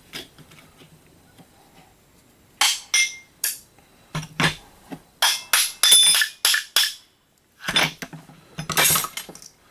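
Metal parts of a Rancilio coffee grinder knocking and clanking as it is taken apart: a quick run of sharp metallic knocks, some ringing briefly, then a short break and a second cluster of knocks.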